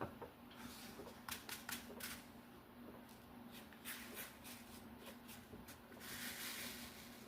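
Small resin diamond-painting drills clicking and snapping as they are placed on the canvas: a quick run of sharp clicks about a second in, scattered clicks later, then a brief rattling hiss near the end.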